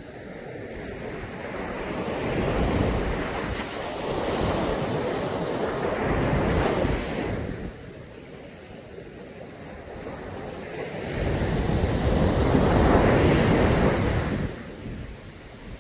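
Sea waves breaking and washing up a beach, the surf rising and falling back in three surges.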